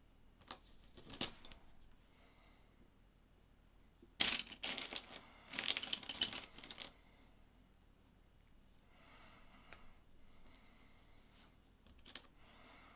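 Plastic LEGO pieces clicking and clattering as they are handled and snapped together. There are a few single clicks first, then a busy spell of clattering from about four seconds in that lasts around three seconds, and fainter handling noises later on.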